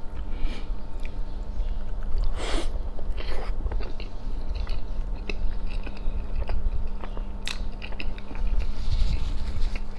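Close-miked chewing and biting of a soft Roti John sandwich of bread, egg, meat and melted mozzarella, with many small clicks and mouth smacks and one louder burst about two and a half seconds in. A faint steady hum runs underneath.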